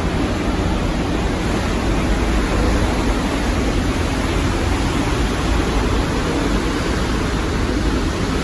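Niagara Falls roaring at close range: a loud, steady rush of heavy falling water without a break.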